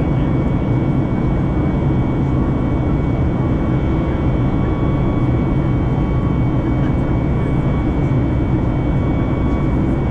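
Boeing 737 MAX 8-200's CFM LEAP-1B jet engines heard inside the passenger cabin: a steady loud rumble with a few thin constant whine tones above it, holding unchanged throughout.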